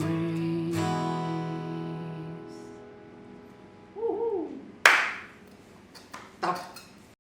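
Final held sung note over a last acoustic guitar strum, ringing out and fading over a few seconds. A short vocal exclamation follows, then a loud sudden burst of noise about five seconds in and a smaller one near the end.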